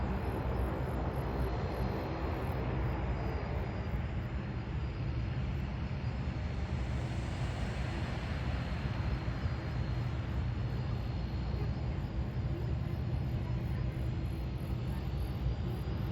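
Jet airliner engines running: a steady rush with a high, thin whine, and the pitch starting to rise near the end as the engines spool up.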